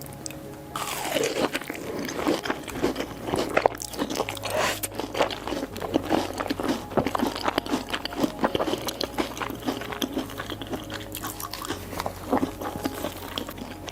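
Crunchy biting and chewing of Hot Cheetos-coated food: a dense run of crackling crunches that starts about a second in and keeps going.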